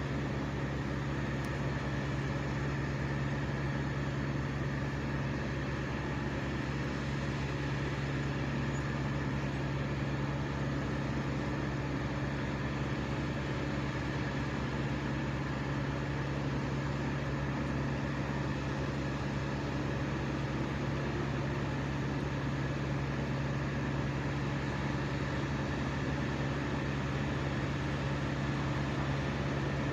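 Engine running steadily at high speed: a constant drone with a strong low hum and higher tones that never change.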